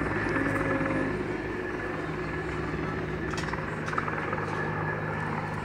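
Helicopter's steady low drone, easing off slightly in loudness over a few seconds.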